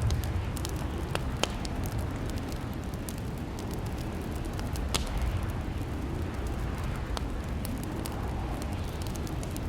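Fireplace crackling: a steady low rumble of burning with scattered sharp pops and snaps, the loudest about a second and a half in and again about five seconds in.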